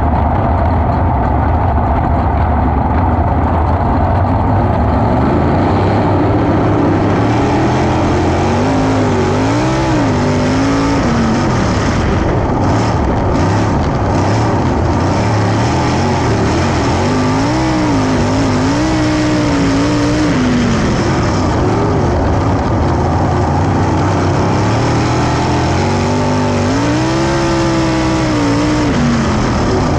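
410 sprint car engines running on a dirt track over a steady low engine drone, their pitch rising and falling in three swells as the cars come around and accelerate.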